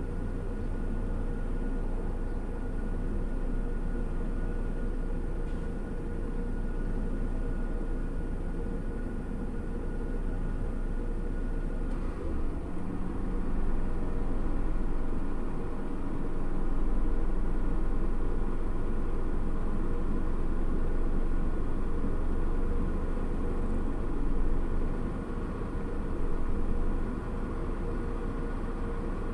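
A vehicle's engine idling with a steady low hum, heard from inside the parked vehicle's cabin; the level swells a little a few times in the second half.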